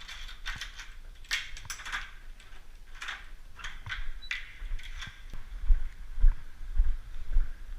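Handling noise: scattered sharp clicks and rustles from gear being moved about, then heavy low thumps on the microphone in the last two seconds.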